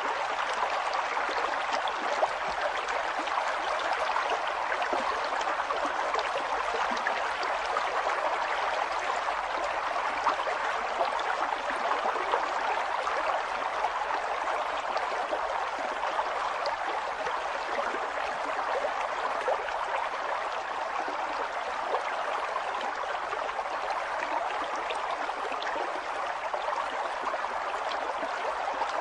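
River water flowing and babbling steadily over rocks, a continuous rush with small splashy flickers.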